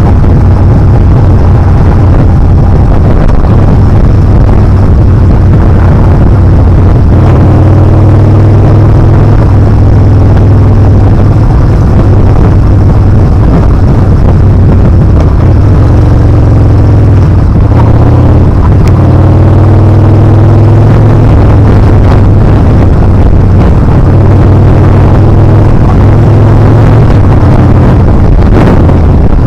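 Yamaha Bolt R-Spec's air-cooled V-twin running loud while riding, its note rising and falling with the throttle, over wind noise on the microphone.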